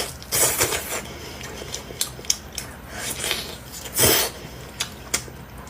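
Close-up eating sounds of gnawing and chewing meat off a lamb leg, with wet clicks and smacks and a louder bite about four seconds in.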